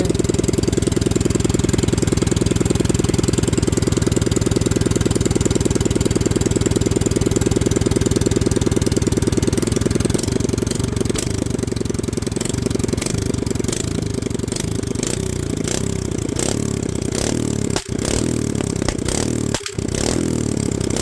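Predator 212cc Hemi single-cylinder four-stroke engine running on a straight pipe, loud and fast with even firing pulses. About halfway through the speed starts to vary with the throttle, and the running turns uneven, with a couple of brief dips near the end.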